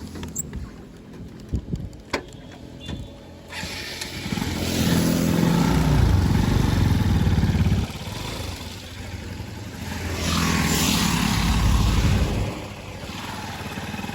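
A few sharp clicks, then a motorcycle engine revving up twice for about three seconds each time. Each rev drops off sharply.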